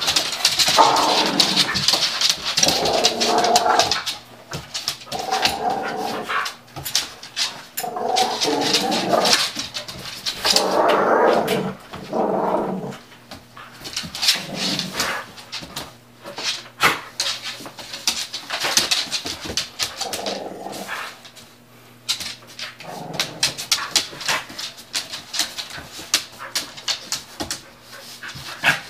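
Two pit bulls play-fighting: repeated vocal outbursts of about a second each, mostly in the first half, over a steady patter of sharp clicks and knocks from the scuffle.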